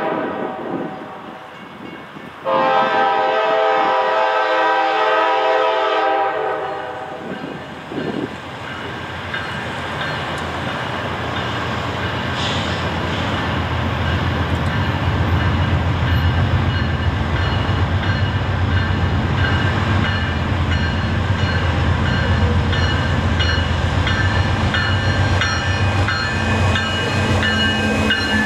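Norfolk Southern diesel locomotives hauling an intermodal freight train. The horn sounds, with a blast ending about half a second in and a longer one from about 2.5 to 7 seconds. The engines then grow steadily louder as the train approaches and passes, with wheels clicking over the rail joints.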